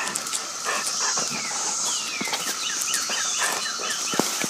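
Chorus of 17-year periodical cicadas droning steadily, with a string of short, downward-sliding bird chirps over it in the middle.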